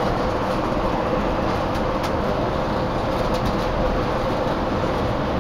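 Amtrak Pacific Surfliner passenger train running at speed, heard from inside the coach: a steady rumble of wheels on rail with a faint constant hum. A few light clicks come around the middle.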